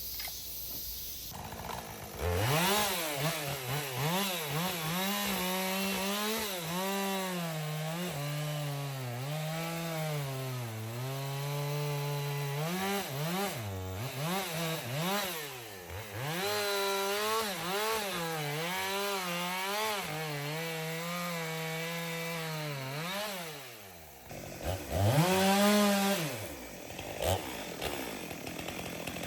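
Two-stroke chainsaw cutting through poplar wood, starting about two seconds in. Its engine pitch sags and recovers as the chain loads in the cut. The saw drops back briefly near the end, then revs up again.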